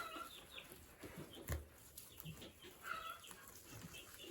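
Faint peeping of chicks, with a single knock about a second and a half in.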